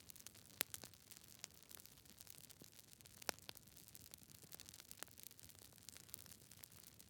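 Wood campfire crackling close up: irregular sharp pops and snaps over a soft steady hiss, the loudest pops about half a second in and about three seconds in.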